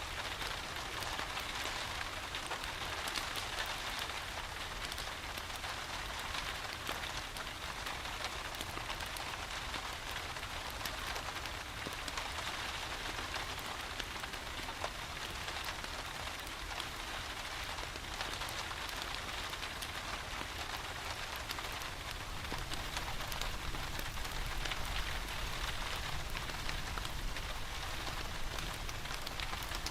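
Steady rain: a continuous hiss of falling rain peppered with fine drop ticks, over a low rumble, growing a little louder about two-thirds of the way through.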